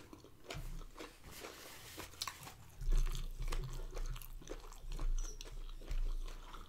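Close-up chewing of a mouthful of food, with irregular soft crunches and wet mouth clicks.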